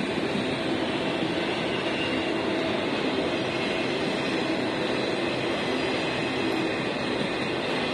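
Car hauler freight train of autorack cars rolling past, a steady noise of wheels on rail with faint steady tones in it.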